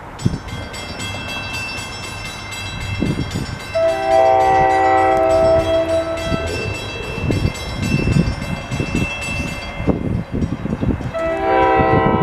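Train horn on NJ Transit ALP-45DP locomotive sounding a long chord-like blast about four seconds in and another near the end. Underneath are the rumble of the arriving commuter train and a steady high-pitched whine.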